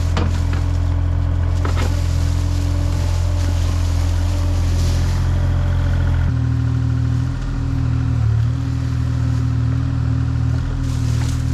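A large engine running steadily, stepping up to a higher speed about six seconds in, with a few sharp knocks over it.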